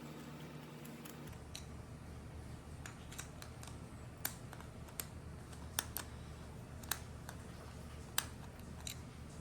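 Scattered small sharp clicks of a screwdriver and metal carburetor parts being handled while the jet is unscrewed. About half a dozen clear clicks come from about four seconds in.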